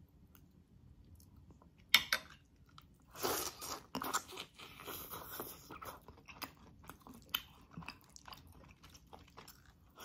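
Close-up mouth sounds of a person eating braised beef rib meat off the bone: a sharp click about two seconds in, a louder stretch of about a second just after, then steady small clicks and smacks of chewing.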